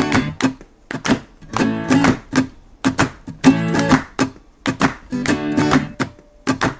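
Acoustic guitar strumming short, sharp chords, the instrumental backing of a sung jingle between vocal lines.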